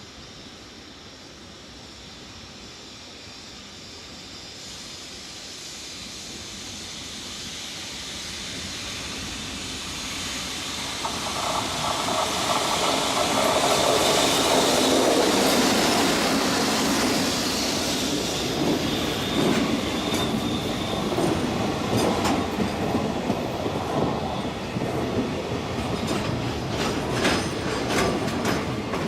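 EF65 DC electric locomotive hauling a freight train, approaching and growing steadily louder until it is loudest about halfway through. The freight wagons then run past with uneven clattering and sharp wheel clicks over the rail joints near the end.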